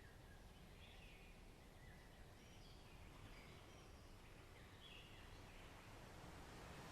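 Faint forest ambience: scattered, distant bird chirps over a low steady rumble, growing slightly louder near the end.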